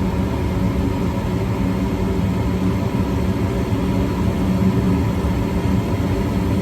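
Gas furnace running just after ignition: the burners firing with a steady rush of flame over the hum of the draft inducer motor.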